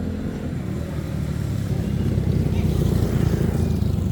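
An engine running steadily, growing louder about two seconds in.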